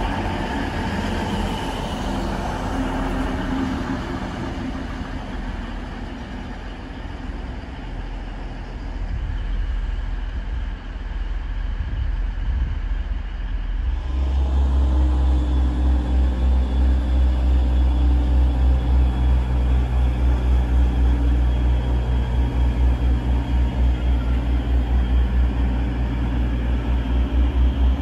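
Red regional multiple-unit train pulling out of the station, its running sound slowly fading. About halfway through this gives way to a louder, steady low engine drone with a regular throb.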